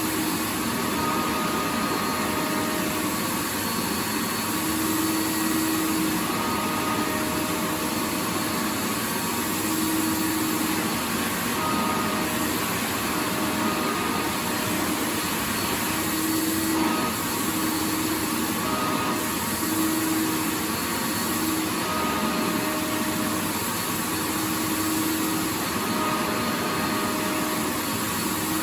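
Vacuum cleaner running steadily: a continuous rushing of air with a faint motor hum whose tones fade in and out every second or two.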